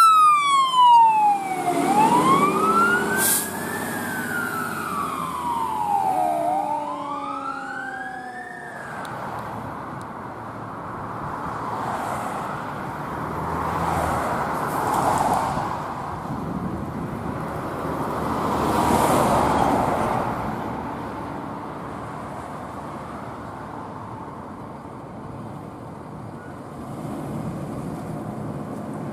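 Emergency vehicle siren wailing, its pitch slowly falling and rising, which stops after about eight seconds. Road traffic noise follows, with vehicles swelling past a few times.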